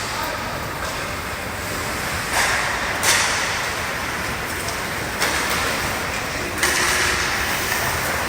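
Noise of a hockey game in play in a rink: a steady rushing wash with brighter stretches, and sharp knocks about three and five seconds in.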